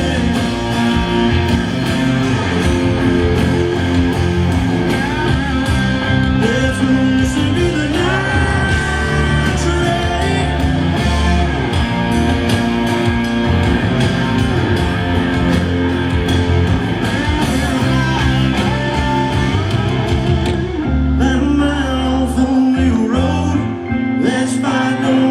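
Country-rock band playing live, loud and continuous, with guitars over bass and drums and some singing.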